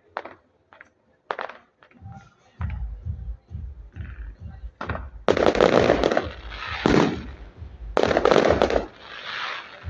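Fireworks display: sharp cracks at first, then a run of low thuds, then several loud bursts from about halfway through.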